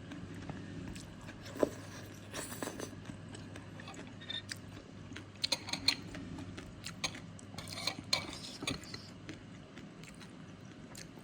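Metal spoon and fork clinking and scraping against a bowl of soto mie noodle soup, in scattered sharp strokes. The loudest clinks come about a second and a half in and around six seconds.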